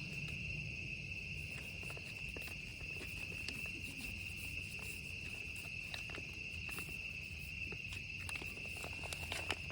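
Crickets chirring steadily in a high, even drone, over a faint low hum and a few small clicks.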